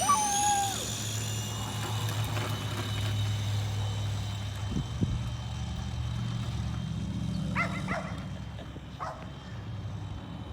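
Small electric scooter's drive motor running steadily as it is ridden, a low even hum with a faint high whine. A short sharp call cuts in about three quarters of the way through.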